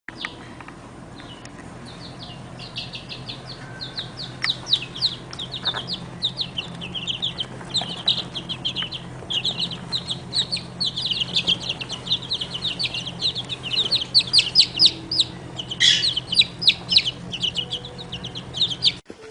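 Baby birds peeping: a rapid, continuous stream of short, high-pitched calls, several a second, getting louder and busier about four seconds in, over a faint steady low hum.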